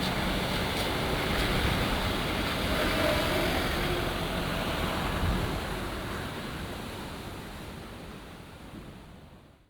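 Rough sea surging and breaking against a sea wall in a storm, a steady rushing that fades away over the last four seconds.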